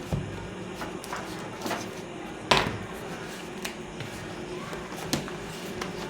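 Books being handled on a table: scattered soft knocks and rustles as they are picked up and moved, with one louder thump about two and a half seconds in.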